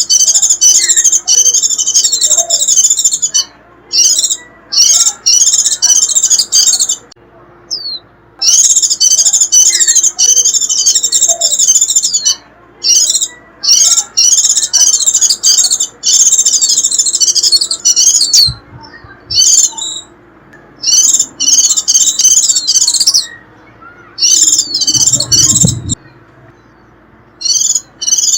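White-eye (vành khuyên) giving its rapid, high 'rít' twittering chatter, used as a lure call. It comes in phrases of one to four seconds with short pauses between them.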